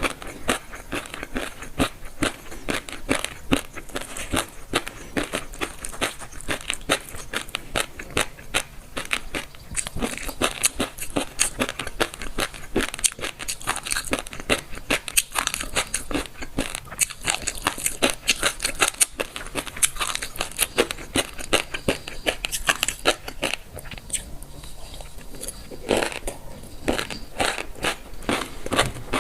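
Close-miked chewing of crisp food: a dense run of wet crunches and crackles that comes and goes irregularly and eases off for a moment near the end.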